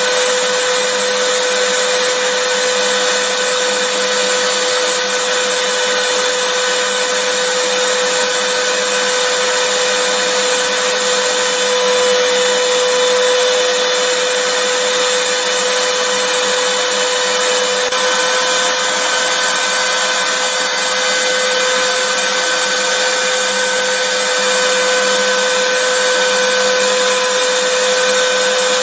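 Vacuum cleaner running steadily: a constant rushing hiss of air with a steady motor whine.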